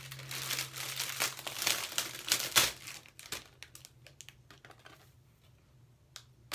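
Packaging of a hair-extension bundle crinkling and rustling as it is unwrapped and handled, dense for the first three seconds, then thinning to a few light rustles and clicks.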